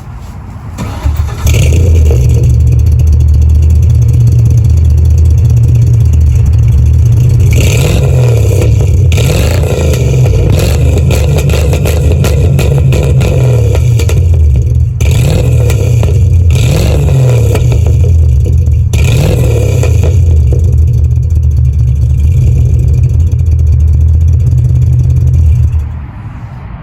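Ford Mustang engine, fitted with short-tube headers and an exhaust dumped just ahead of the rear axle, running loud and being revved several times, with idling between the revs. It comes in about a second in and drops away shortly before the end.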